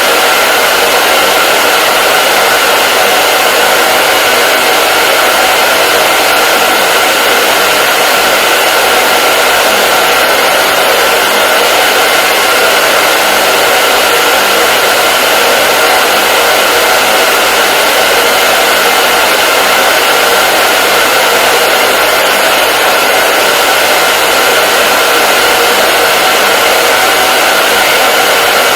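Hair dryer running steadily: an even, unbroken rush of air with a faint steady whine from its motor and fan.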